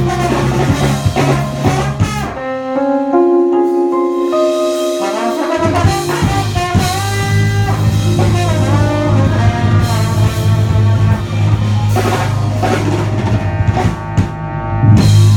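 Live band music with drums and bass. About two seconds in the drums and bass drop out for a few seconds, leaving held notes, then the full band comes back in.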